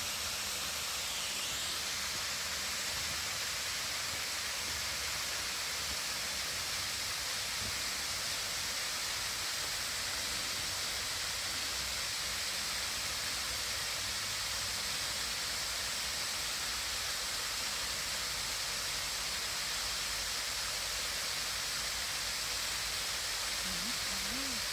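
Waterfall rushing: a steady, even hiss that never lets up.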